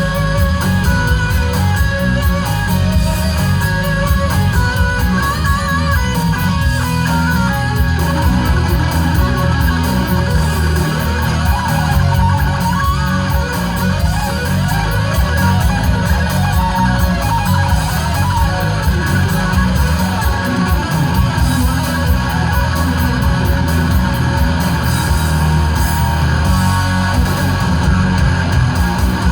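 Live heavy-metal instrumental: fast, shred-style lead electric guitar over a heavy, dense band backing, recorded loud from the audience.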